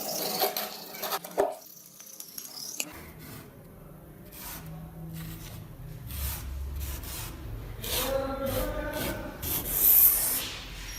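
Abrasive rubbing and scraping on the rusty metal of a vintage manual meat grinder during rust removal. It is dense and rough for the first second or two, then comes in separate, irregular strokes.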